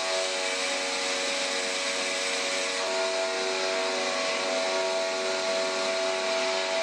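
Angle grinder running steadily under load, grinding steel welds flat, with a steady motor whine over the grinding noise.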